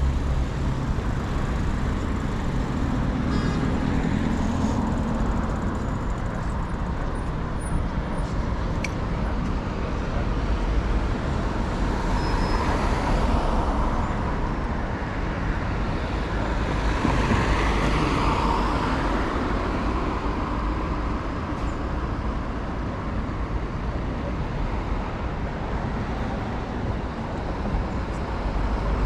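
City street traffic: a steady low rumble, with two vehicles swelling up and passing by, about twelve and seventeen seconds in.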